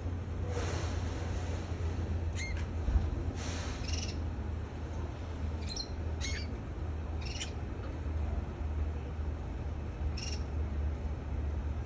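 A pet canary giving short, scattered chirps and call notes, some sweeping quickly upward, every second or two rather than a continuous song, over a steady low hum, with a single thump about three seconds in.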